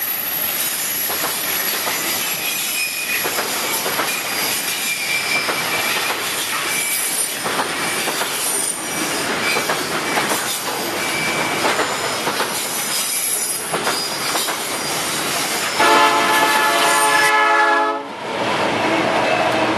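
Freight train of container flatcars rolling past on a curve: steady wheel and rail noise with short high-pitched flange squeals. About 16 s in, a diesel locomotive horn sounds for about two seconds and cuts off suddenly, followed by diesel locomotives running past close by.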